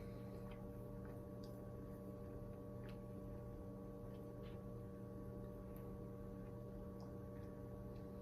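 Low steady hum with a few faint, scattered clicks.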